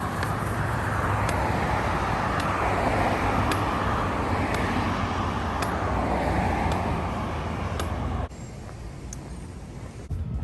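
Highway traffic noise: a vehicle passing at speed on the road, a broad tyre-and-engine rush with a low hum that swells and then cuts off suddenly about eight seconds in. Faint ticks sound about once a second.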